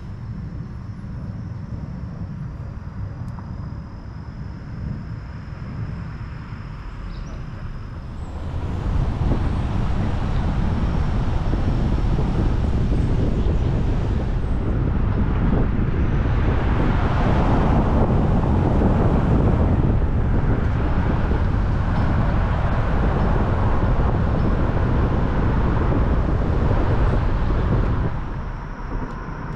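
Vehicle driving on a road: steady engine and road noise that grows louder about eight seconds in, holds steady, and eases off near the end.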